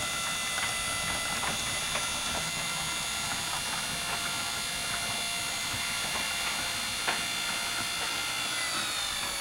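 Genie Silentmax 1000 garage door opener, converted to a side-mount jackshaft drive, running steadily with a whine as it moves the door on its slow speed setting. Faint ticks run through it. Near the end the whine drops in pitch as the motor slows.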